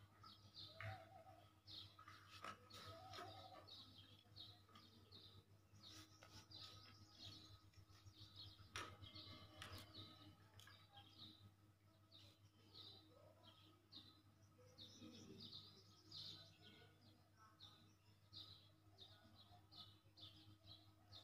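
Faint bird chirping, many short calls repeating over and over, with a few sharp clicks and a steady low hum underneath.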